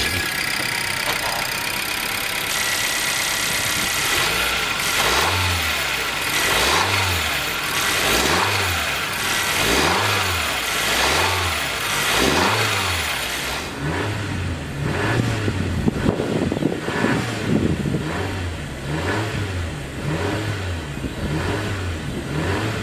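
2020 Honda CR-V's 1.5-litre turbocharged four-cylinder running, idling at first, then revved in short throttle blips about every second and a half from about five seconds in.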